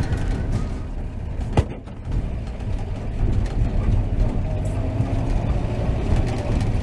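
1949 Chevrolet 3100 pickup's 235 straight-six running through its dual exhaust while driving. A single sharp click about one and a half seconds in.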